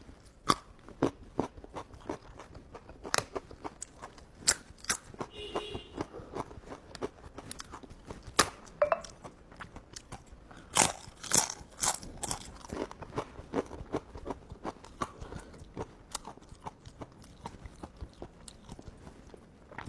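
A person eating close to the microphone, chewing and biting into tebu telur (sugarcane flower) and fish roe, with irregular wet smacks and crunchy clicks.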